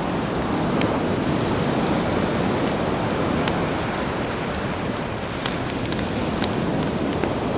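Sea surf washing steadily, with a campfire crackling: several sharp pops of burning wood stand out over the waves.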